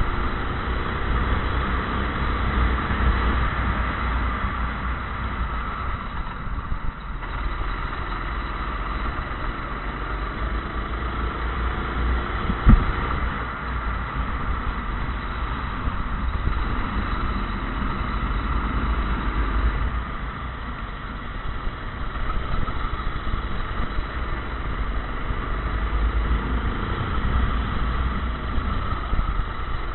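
Go-kart engine running throughout, its pitch rising and falling repeatedly as the kart speeds up and slows, over a heavy low rumble. A single sharp knock comes about 13 seconds in.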